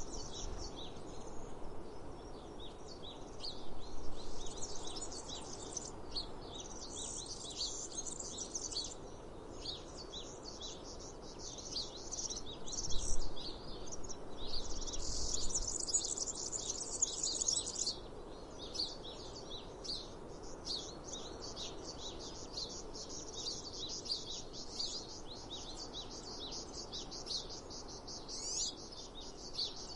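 Many small birds chirping and singing continuously, with stretches of steady high insect buzzing. A brief low thump comes about thirteen seconds in.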